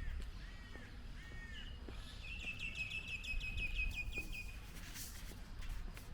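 A bird singing: three short arched notes, then a fast trill of about a dozen notes lasting about two seconds, over a low background rumble.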